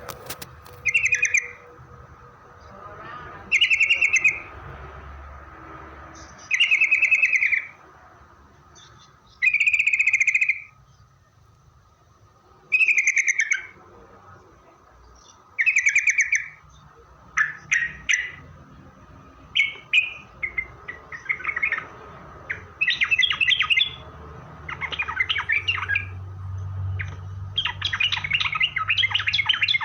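Yellow-vented bulbul (trucukan) singing: loud, bubbly phrases about a second long, repeated every two to three seconds. In the second half they turn into faster, denser chattering.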